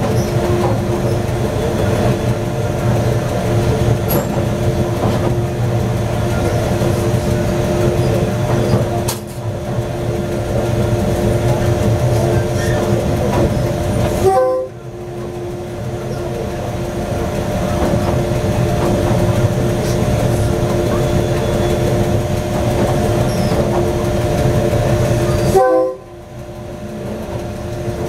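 Diesel locomotive running, heard from its cab as the train rolls slowly over a steel railway bridge: a steady multi-tone drone over a rumble of wheels on rail. The overall sound dips suddenly twice, about halfway through and near the end.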